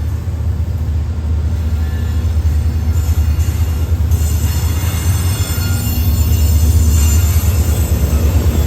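Freight train rolling by with a steady low rumble that grows louder, and high-pitched wheel squeal coming in about four seconds in.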